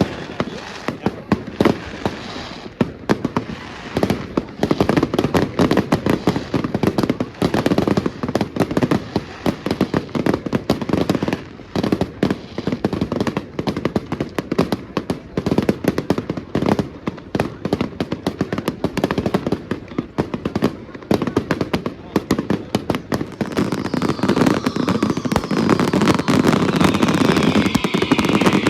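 Firecrackers and fireworks going off in a dense, rapid run of cracks and bangs, with a few whistling glides falling in pitch near the end.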